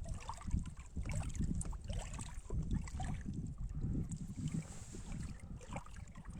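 Wind rumbling unevenly on the microphone, with faint scattered ticks and small chirps over it.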